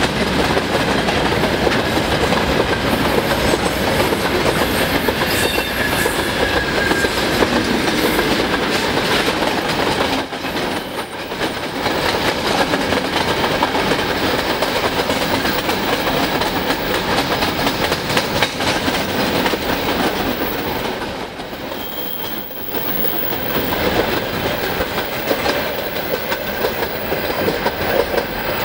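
Freight train wagons, open gondolas and grain hopper cars, rolling past close by at about 56 km/h. A steady rumble and rattle of steel wheels clattering over the rail joints, briefly quieter about ten seconds in and again around twenty-two seconds.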